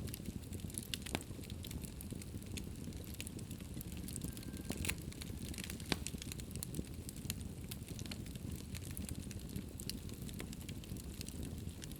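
Wood fire burning in a fireplace: a steady low rumble of the flames with irregular sharp crackles and pops, one louder pop about six seconds in.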